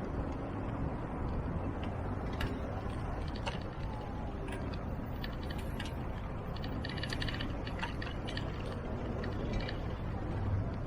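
A bicycle ridden on a city street, with a steady low rumble of wind and traffic. Over a few seconds in the middle comes a fast mechanical ticking from the bike, with a couple of sharp clicks before it.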